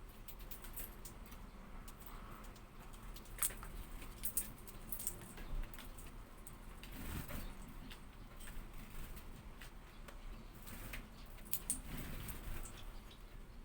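A hawfinch making short, sharp ticks and taps at irregular intervals, a few of them louder about three to four seconds in and again near the end.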